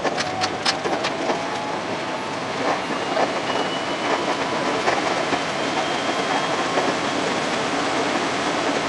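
521-series electric multiple unit running on the line, heard from the driver's cab. About half a second in there is a quick run of sharp clicks as the wheels pass over track joints, then a steady rolling noise with a faint high hum.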